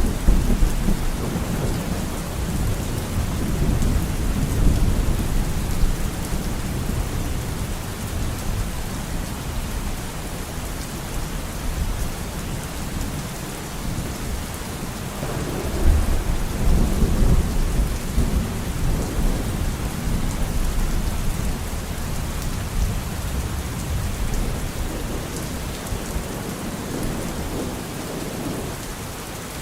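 Steady heavy rain with rolling thunder. A rumble dies away at the start, and another peal breaks about halfway through and rolls on for several seconds.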